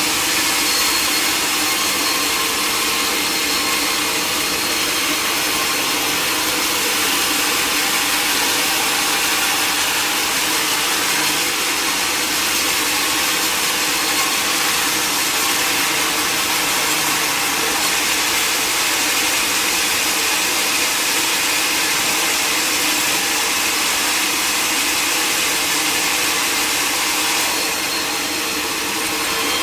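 Power saw at a sawmill running steadily while cutting through a log, a continuous loud mechanical whine and rasp of the blade in the wood, easing slightly near the end.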